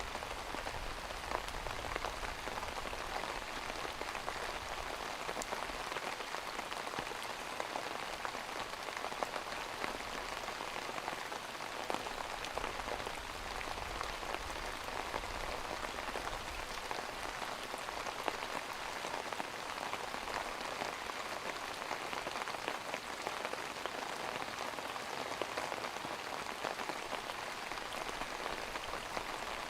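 Steady rain falling on a surface: a continuous patter made of many small drops.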